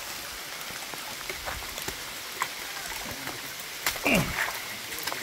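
Heavy rain falling steadily, with scattered sharp drop ticks, and a short falling squeal about four seconds in.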